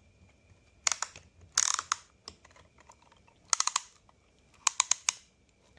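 Ratchet clicking in four short bursts of rapid clicks, tightening a piston ring compressor to squeeze the rings on an oiled piston until it is as tight as the ratchet will go.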